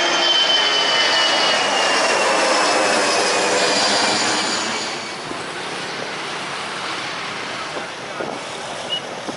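Jet airliner's engines going past, a loud rush with a high whine sliding slowly down in pitch, dropping away about five seconds in to a quieter steady rumble.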